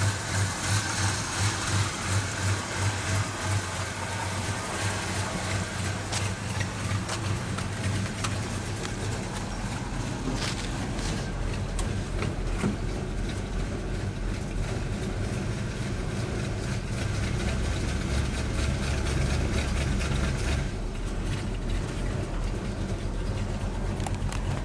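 Chevrolet 350 small-block V8 in a 1947 Chevrolet panel truck idling. It pulses a couple of times a second for the first few seconds, then runs more evenly.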